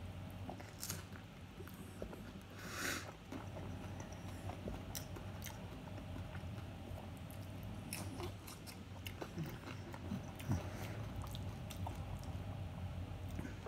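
A person chewing mouthfuls of chicken nachos, with wet smacking and scattered small clicks; the tortilla chips have gone soggy.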